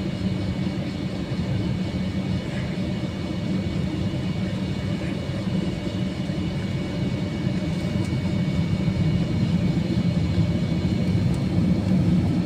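Airbus A321-200 cabin noise while taxiing: a steady low rumble from the jet engines at taxi power, with faint steady whine tones above it, growing slightly louder toward the end.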